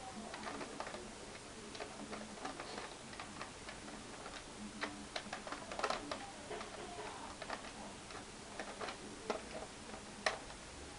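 Small, irregular clicks and taps of a small screwdriver working on the laptop's screws and plastic case, a few a second, with a sharper click about six seconds in and another near the end.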